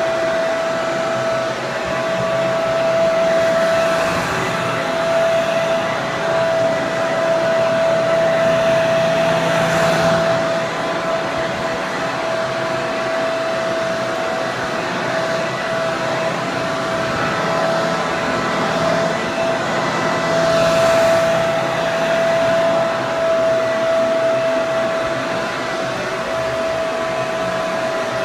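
Electric hair dryer running continuously: a steady rush of air with a motor hum held on one pitch, swelling and easing slightly every few seconds.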